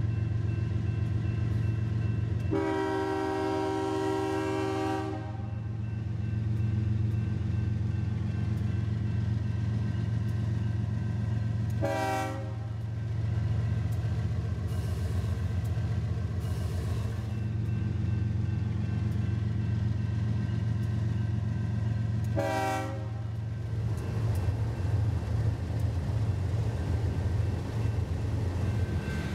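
BNSF diesel locomotives running under load with a steady low drone as a freight train gets under way. The air horn sounds one long blast of about two and a half seconds near the start, then two short toots about ten and twenty seconds later. Near the end the locomotive noise becomes rougher and more uneven.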